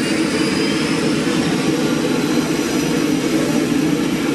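Pratt & Whitney PT6A turboprop engine of a Cessna 208 Grand Caravan running: a steady, loud propeller and turbine drone with a thin high whine that rises slightly in the first second.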